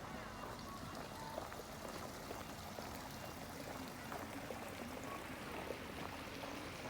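Water trickling and splashing steadily, with small scattered drips and splashes.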